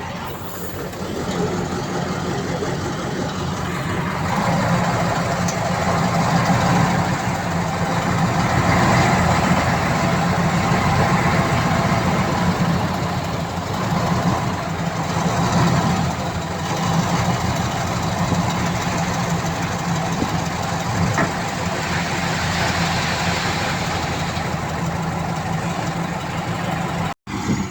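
Heavy diesel earthmoving machinery running steadily, the engine growing a little louder about four seconds in; the sound cuts out for an instant near the end.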